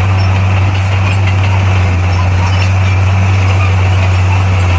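Bulldozer's diesel engine running at a steady speed, a loud, even low drone with no revving or change in pitch.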